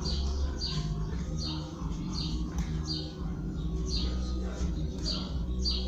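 A bird chirping over and over, short high downward-sliding chirps about twice a second, over a steady low hum.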